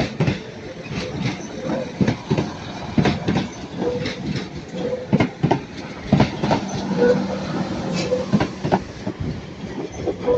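Class 197 diesel multiple unit pulling out of the station, its wheels clattering irregularly over the pointwork with a steady rumble underneath.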